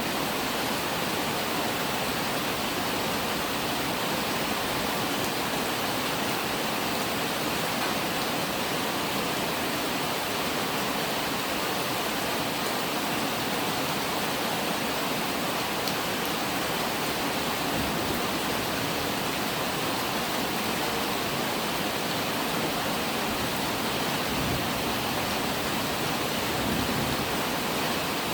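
Steady rain falling, an even unbroken hiss with no pauses or single drops standing out.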